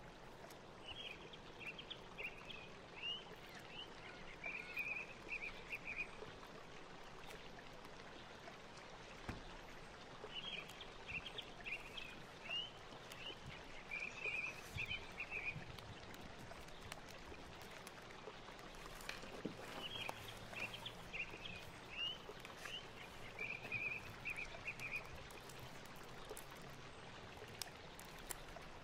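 A bird singing the same phrase of quick high chirps ending in a short trill, three times about nine seconds apart, over a steady hiss.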